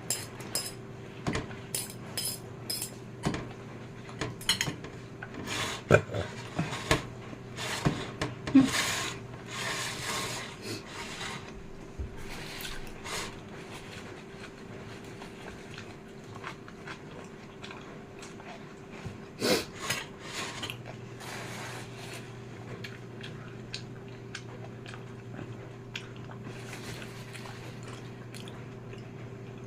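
Eating close to the microphone: a utensil clinks and scrapes on a dish between mouthfuls of fried noodles. The clicks are thickest in the first dozen seconds and again around twenty seconds in, over a steady low hum.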